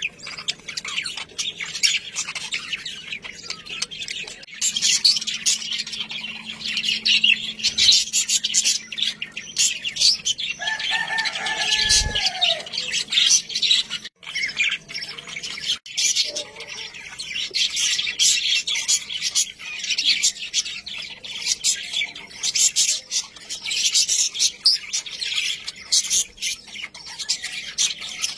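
Budgerigars chattering and warbling, a dense stream of rapid high chirps, with a lower, longer call about eleven seconds in.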